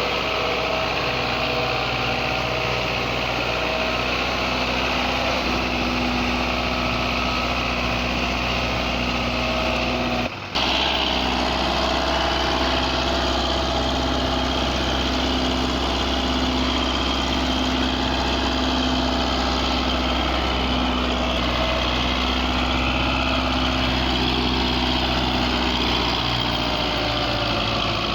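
Belarus 510 tractor's four-cylinder diesel engine running steadily at a constant speed, with a brief dropout about ten seconds in.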